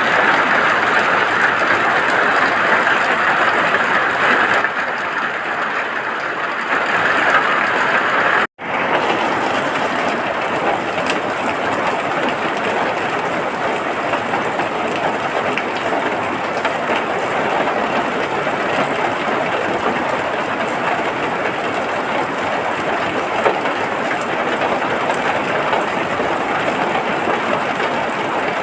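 Steady rain falling, an even hiss. About eight and a half seconds in it cuts out for an instant, then resumes with a slightly fuller tone.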